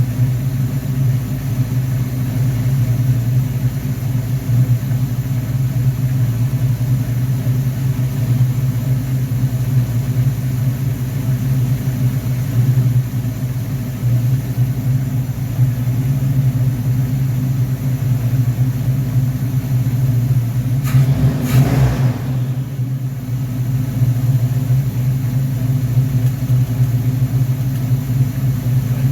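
Car engine running steadily on a freshly rebuilt Rochester Quadrajet four-barrel carburetor, on its first run after the rebuild. A brief louder noise comes about 21 seconds in.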